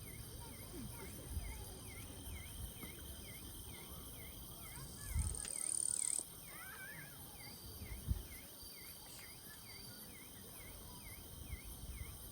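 An insect chirps steadily over outdoor ambience, about two chirps a second. There are two low thumps about five and eight seconds in, and a steady high whine that stops abruptly around six seconds.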